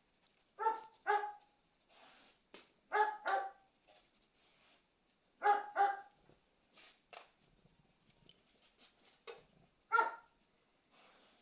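A dog barking in short barks, mostly in quick pairs, four times over, with faint sharp clicks in the gaps.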